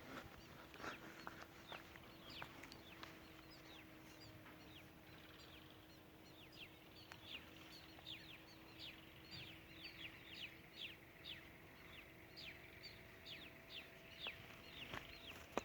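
Faint, rapid bird chirping: a string of short, falling chirps, several a second, that grows busier after about four seconds.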